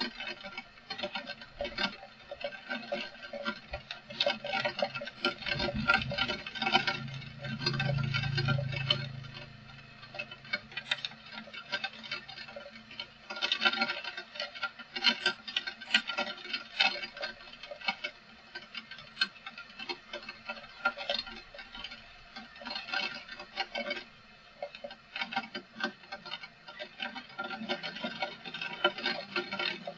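Rain pattering: a dense, irregular stream of drops striking a surface. A low rumble swells and fades about six to ten seconds in.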